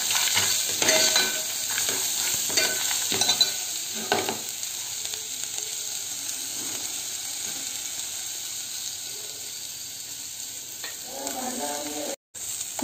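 Green chillies, garlic, ginger and peanuts sizzling in hot oil in an aluminium pot. A steel ladle stirs and clinks against the pot in the first four seconds or so, then the frying goes on as a steady sizzle.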